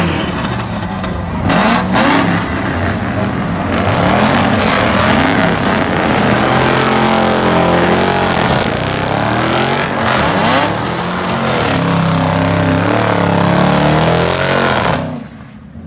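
A car engine revved hard over and over, its pitch climbing and falling, as the car does donuts. The noise drops away sharply about a second before the end.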